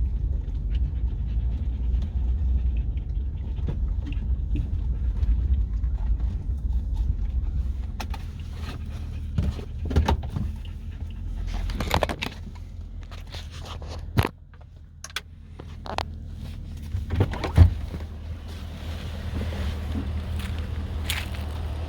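Pickup truck running and rolling along a rough track, heard from inside the cab, with a dog panting. In the second half come several sharp knocks, and the low rumble drops away for a few seconds partway through before returning.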